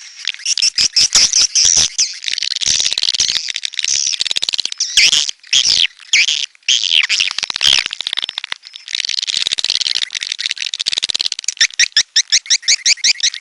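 Swiftlets (walet) chattering in a dense, overlapping flock of high twittering calls, ending in a fast, regular run of chirps at about eight a second.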